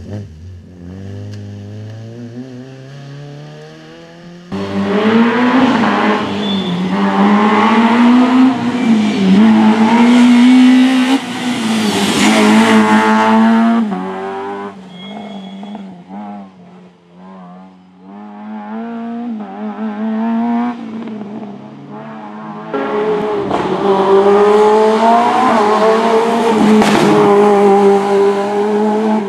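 Race car engines revving hard through a slalom course, the pitch climbing and dropping as the cars accelerate, shift and lift off, with tyre squeal. Two long loud stretches, one from about four seconds in and another near the end, are separated by a quieter passage.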